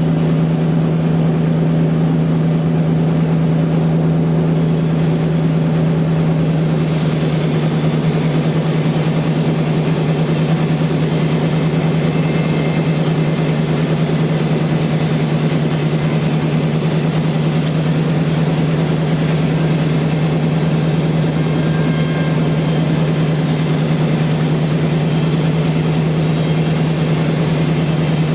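Sawmill machinery running with a steady low hum. About five seconds in, a higher hiss comes in and then holds steady.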